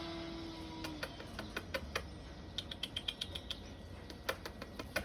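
Common blackbird pecking at food on a hard surface: irregular sharp taps and clicks, several a second at times.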